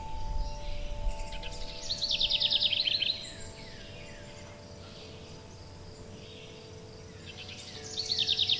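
A songbird singing a rapid, high trill for about a second, two seconds in, and again near the end, with softer chirps in between. Underneath, wind chimes hold long, steady ringing tones.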